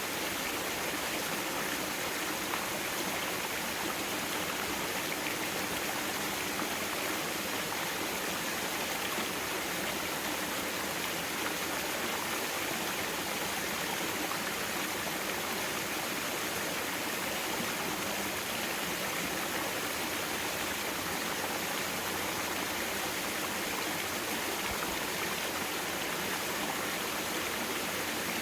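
Mountain-valley stream water flowing and rushing over rocks in a steady, unbroken hiss.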